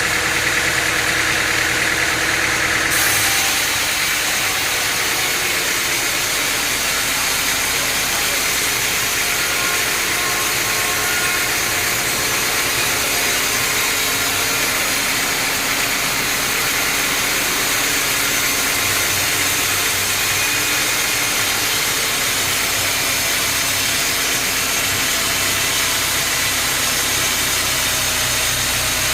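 Sawmill machinery running steadily: an engine hum under a loud, even hiss, with a change in the sound about three seconds in.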